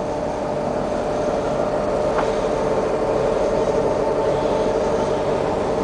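Steady drone of the Sea Ray's idling inboard engines, heard from inside the cabin, with a constant low throb and a held hum.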